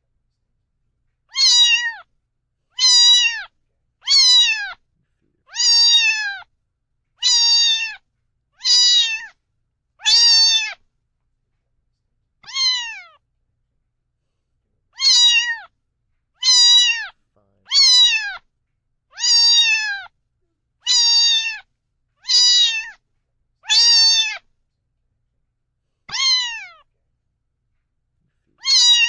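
Domestic cat meowing over and over, about seventeen short high meows that fall in pitch, spaced roughly a second and a half apart with a few longer pauses.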